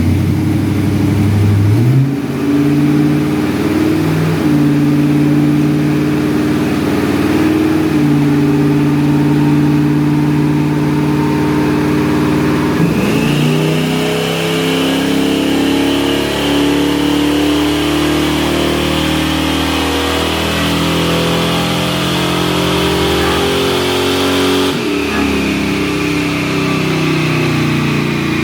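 The Ranger's 5.3-litre V8 running under load, holding a steady engine note. Its pitch climbs a couple of seconds in and shifts to a new steady note about halfway through and again near the end.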